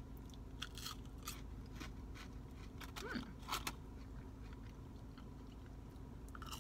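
Close-up crunching and chewing of battered, fried onion rings: a string of short, crisp crunches through the first few seconds, then another bite near the end.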